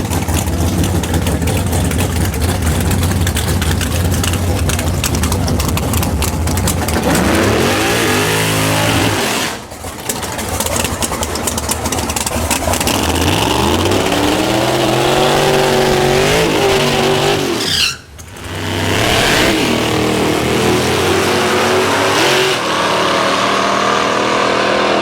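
Drag-race cars' engines running loud and choppy at first, then accelerating hard down the strip, their pitch rising in long sweeps. The sound drops out sharply twice, about ten and eighteen seconds in.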